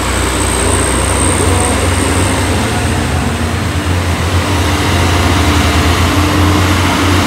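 Heavy truck's diesel engine running under load with a steady low drone over road noise, growing a little louder in the last few seconds.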